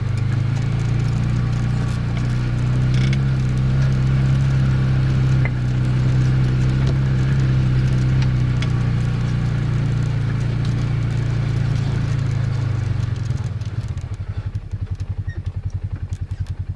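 Small off-road vehicle engine running steadily under way, then dropping to an idle with an even, lumpy beat about 14 seconds in.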